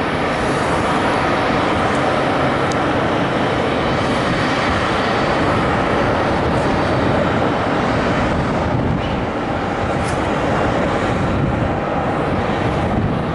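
Boeing 737-800 airliner's CFM56 jet engines heard as it arrives, a loud steady rush of jet noise.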